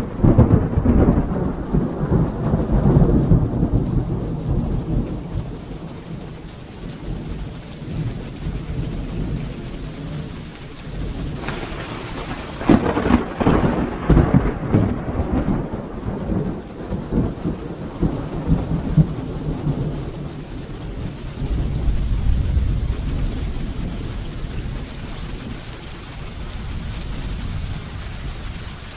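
Steady rain falling through a thunderstorm. A sharp thunderclap right at the start rolls off over several seconds, a second crack about twelve seconds in rumbles for a few seconds, and a lower rumble of thunder follows about ten seconds later.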